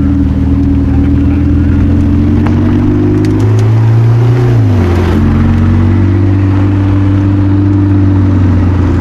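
A car engine idling, low and steady. About three and a half seconds in it gets a short throttle blip, then falls back to idle about a second later.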